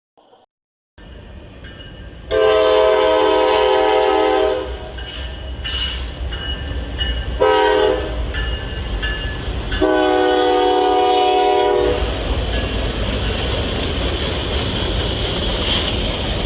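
Train horn sounding a long chord blast, a short blast and another long blast, over the steady rumble of a passing train with wheel-on-rail hiss that carries on after the horn stops.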